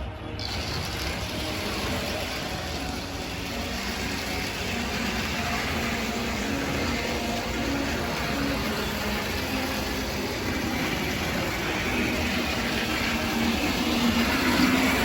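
HO-scale model locomotive running on Kato track, a steady whir of its motor and wheels on the rails that grows gradually louder.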